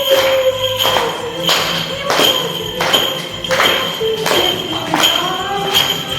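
Song with a solo vocal melody over a backing track with a steady percussive beat.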